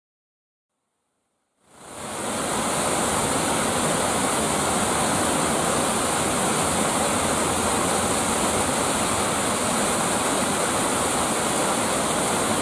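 Waterfall with water rushing and splashing in a steady, unbroken noise, which comes in quickly out of silence about two seconds in.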